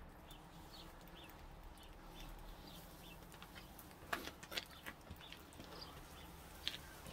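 Small birds chirping faintly and repeatedly in short, scattered chirps. A few sharp clicks and knocks come from about four seconds in and again near the end, as a container is handled.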